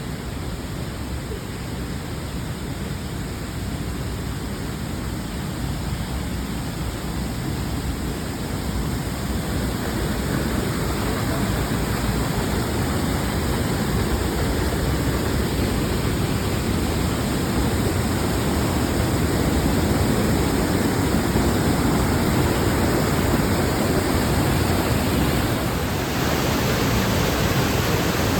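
Wind rushing over the microphone of a moving bike, a steady roar that builds gradually louder over the first twenty seconds and dips briefly near the end.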